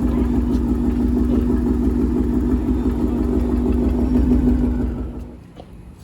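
Loud exhaust of a V8 car that throws a cylinder-8 misfire code (P0308), running steadily, then stopping about five seconds in.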